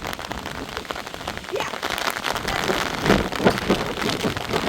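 Heavy rain falling on a surface, a dense steady hiss full of separate drop hits, getting somewhat louder about halfway through.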